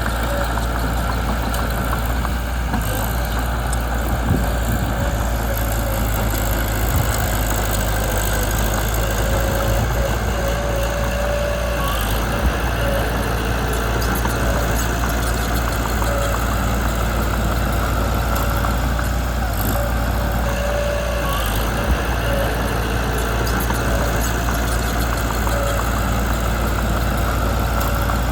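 Mitsubishi BD2 small bulldozer's diesel engine running steadily, with a thin whine that comes and goes. Two short sharp clanks are heard, about 12 and 22 seconds in.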